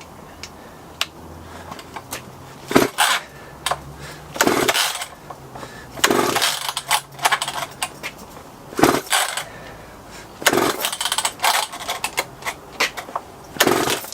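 McCulloch Pro Mac 10-10 chainsaw being pull-started: about six rasping pulls of the recoil starter cord, a second or two apart, turning the engine over without it firing. This points to a no-start, which the owner puts down to stale gas.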